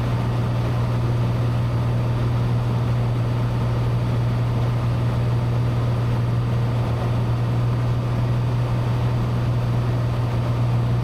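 Cessna 182's piston engine and propeller droning steadily in cruise flight, a constant low hum with no change in pitch.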